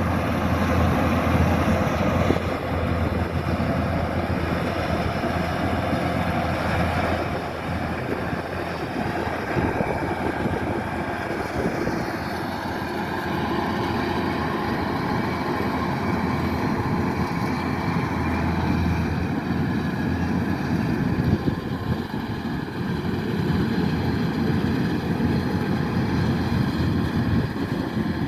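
Kubota rice combine harvester running steadily, its diesel engine and threshing machinery making a continuous drone.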